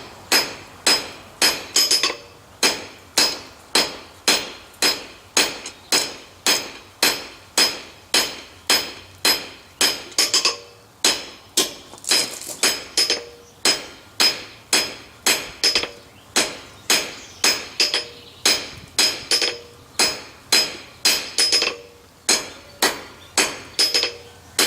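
Blacksmith's hammer striking hot steel on an anvil, drawing down a tenon on a bar. The blows come at a steady rate of about two a second, each with a short metallic ring.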